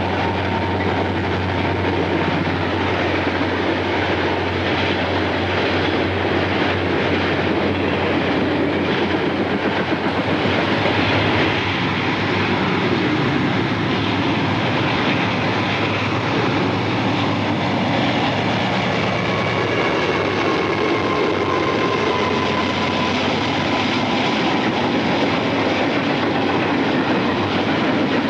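A train passing: a diesel locomotive's engine hums steadily at first, then fades about two-thirds of the way through, leaving the continuous rolling noise of railroad cars on the rails.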